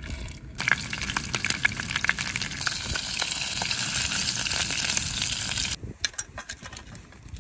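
Fish fillets sizzling and crackling in hot oil in a frying pan, starting about half a second in. The sizzle cuts off abruptly near the end, leaving a few light clicks.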